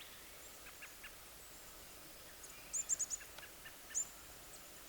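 A small bird chirping: short, high-pitched notes in a quick run of about four, about three seconds in, and one more a second later, over faint outdoor background hiss.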